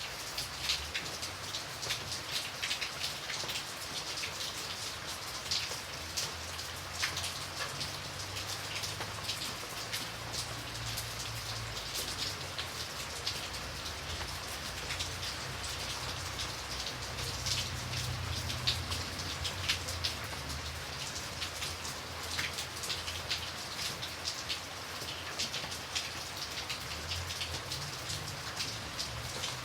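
Steady rain falling, with many distinct drops pattering on a surface over a soft low rumble.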